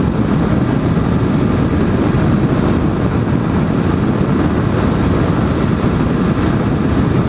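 Motorcycle running steadily at road speed, its engine drone mixed with wind rush on the microphone.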